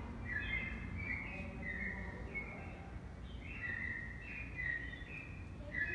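Bird chirping: a run of short, high whistled chirps, about two a second, over a steady low hum.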